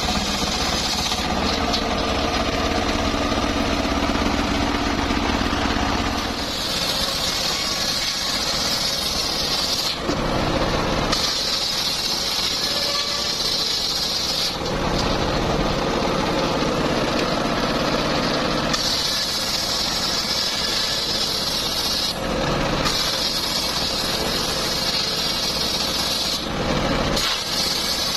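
Homemade circular sawmill running, its blade ripping through teak in several passes of a few seconds each, with the engine-driven saw spinning between cuts.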